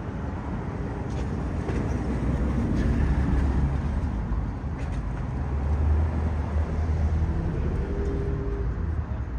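Steady low vehicle rumble with road-traffic noise, swelling slightly about three and six seconds in.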